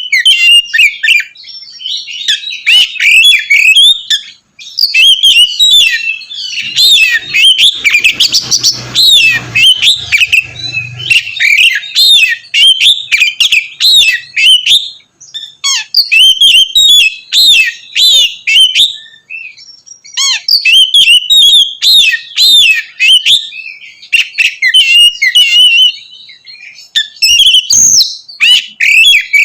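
Oriental magpie-robin (kacer) singing loudly in full song ('ngeplong'): long runs of rapid, varied whistled notes, broken by short pauses of about a second.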